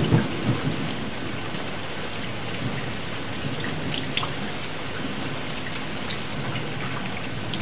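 Steady rain with scattered sharp drop ticks. A low thunder rumble dies away just after the start.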